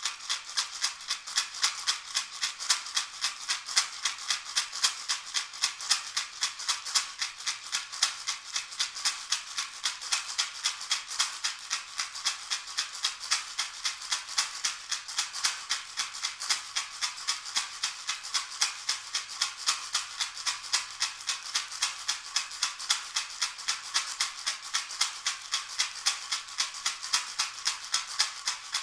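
A handheld shaker shaken in a steady, even rhythm, about three shakes a second, as part of a sound-meditation session.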